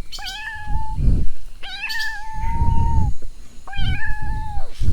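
A kitten mewing three times in high, thin calls, the middle one drawn out longest, each ending in a brief downward slur. Low muffled rumbles sound between the calls.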